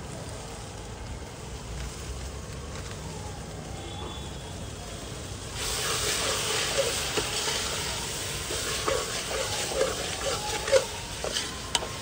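Spiced onion-tomato masala frying in a pot while a spoon stirs it. The sizzle turns louder about halfway through, and the spoon scrapes and knocks against the pot in the second half.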